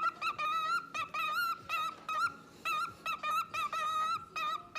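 A parrot calling in a rapid run of short, clear notes on the same pitch, about three a second, some of them wavering.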